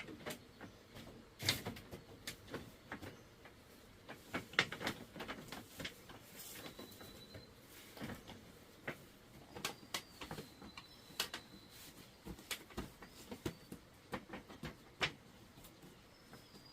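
Irregular light knocks and clicks, several a second, with louder ones about one and a half and four and a half seconds in. A few faint, high chirps sound in the background.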